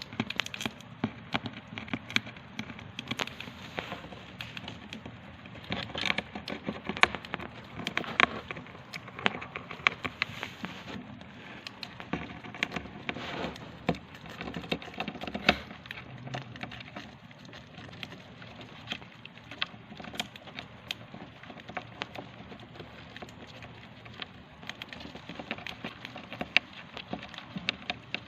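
Hamster nibbling dry seeds: a rapid, irregular run of tiny crunches and clicks as the husks crack.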